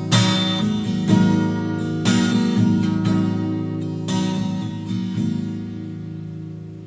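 Song outro played on strummed acoustic guitar, chords struck about once a second and slowly fading out.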